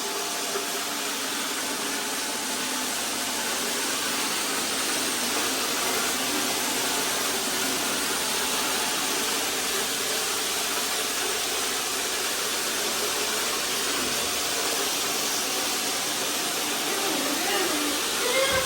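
Robot vacuum cleaners running together while spot-cleaning, a steady whirring hiss of their suction motors and brushes.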